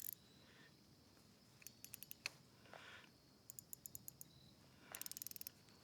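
Faint, quick runs of small mechanical clicks from a fishing reel being handled, the last run the fastest.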